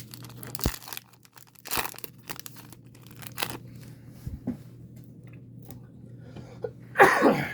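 Crinkling and tearing of a trading-card pack wrapper being opened, in short scattered crackles. Near the end comes a loud cough, the loudest sound here.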